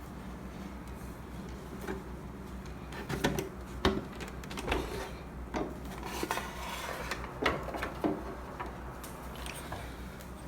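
Scattered clicks, taps and short scrapes of plastic and metal parts being handled inside an espresso machine as its pump is freed from its mounting, over a low steady hum.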